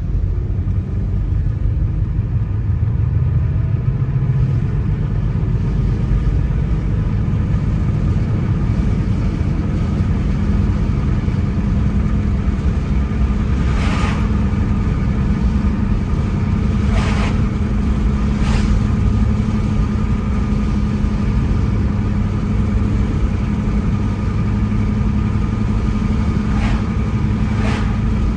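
Car driving at a steady speed: engine hum and tyre and road noise, with a few brief knocks, such as bumps or road seams, in the second half.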